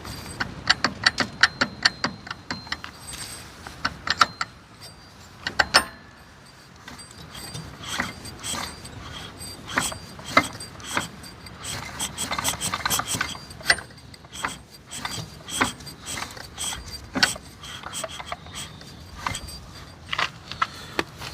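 Small metal parts and hand tools clicking and clinking as they are handled, in quick irregular runs of sharp ticks, during work on a scooter carburetor.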